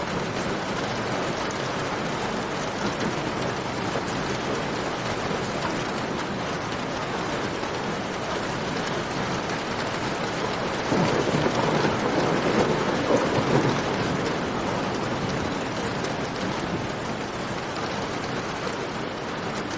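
Steady rain mixed with the crackle of a campfire. About eleven seconds in, a deeper swell rises louder for about three seconds, then settles back.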